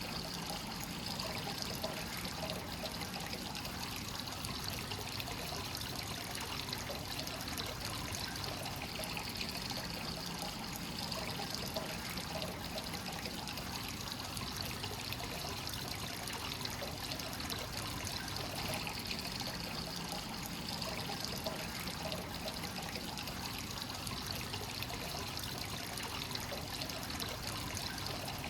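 Hot spring water pouring steadily into a rock bath and trickling over the brim in a continuous flow.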